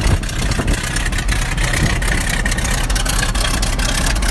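The 1943 Boeing biplane's radial engine idling slowly and steadily while it warms up from a cold start after two months without running.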